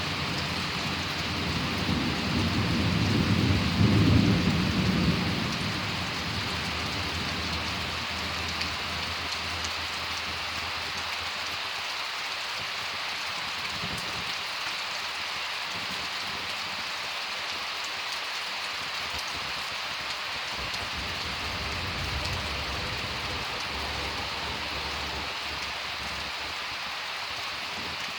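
Steady heavy rain of a summer thunderstorm. A roll of thunder rumbles low and swells about two seconds in, peaks about four seconds in and dies away by six seconds. A fainter rumble follows about two-thirds of the way through.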